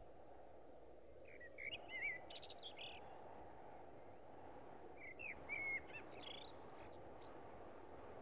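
Faint birdsong over a low, steady ambient hiss: two short flurries of chirps and whistles, one about two seconds in and another about five seconds in.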